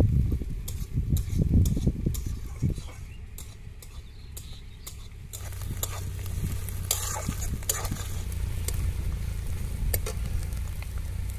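Ginger-garlic paste and green chillies frying with onions in oil in a kadai, stirred with a spatula that scrapes and clicks against the pan. A steady low hum comes in about halfway through.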